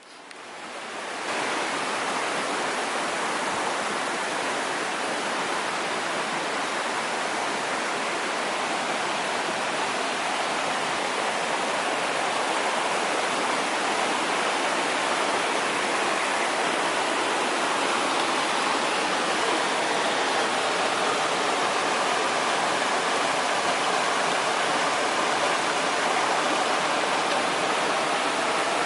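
A mountain stream's water rushing steadily. It fades in over the first second or so.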